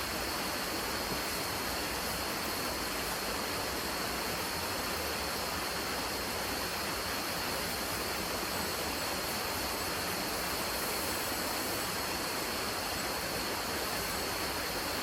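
Steady, even rushing noise, like running water, with a thin high whine held through it.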